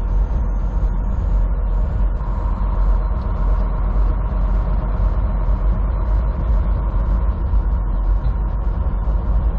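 Truck engine and road noise heard inside the cab while driving: a steady low drone with a faint hum over it.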